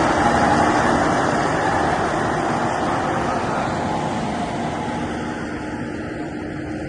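A heavy vehicle's engine running steadily, slowly growing quieter.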